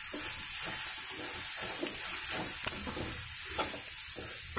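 Masala paste of onion, chili powder and spices sizzling in hot oil in a metal kadai, a steady hiss, while a spoon stirs and scrapes it round the pan in irregular strokes. The masala is being fried well, until its raw smell goes.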